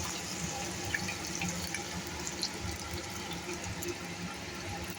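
Hot oil sizzling steadily in a frying pan, with small scattered crackles: the oil is left over from frying fish.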